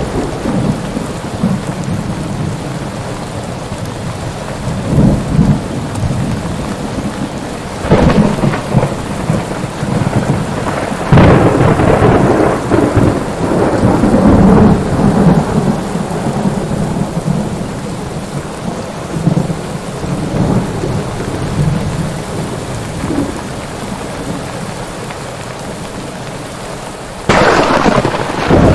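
Thunderstorm: steady heavy rain with rolling thunder. A sharp crack comes about 8 seconds in, and a louder clap about 11 seconds in rumbles on for several seconds. Near the end the sound turns suddenly louder.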